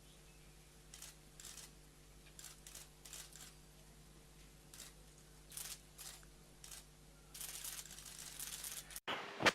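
Faint steady electrical hum with scattered short bursts of hiss and clicks, like the background of an aircraft's cockpit radio and intercom recording. A longer stretch of hiss comes near the end, then the sound cuts out and a brief louder burst follows.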